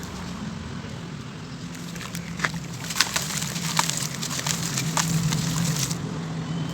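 Grainy sand-cement chunks crumbling in water, with sharp crackles that grow denser from about two seconds in, over a steady low hum.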